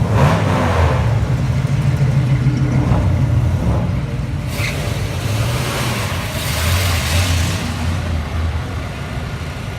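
Car engines running with a deep, steady exhaust rumble as cars cruise by. The rumble swells in two places: just after the start and again about six to seven and a half seconds in.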